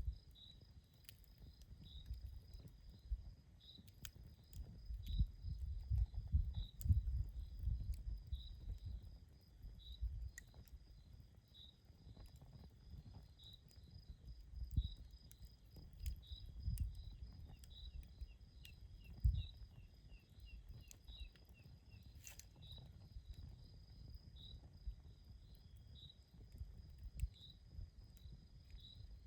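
Campfire crackling with scattered sharp pops over a low, uneven rumble, while crickets chirp steadily about once a second with a higher insect trill behind them.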